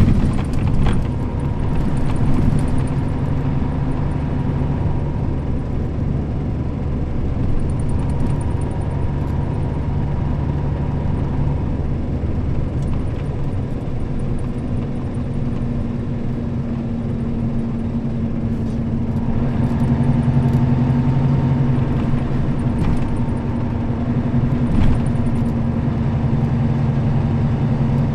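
Nissan Diesel KL-RA552RBN route bus running under way, a steady diesel engine drone. About 19 seconds in, the engine note gets a little louder and stronger.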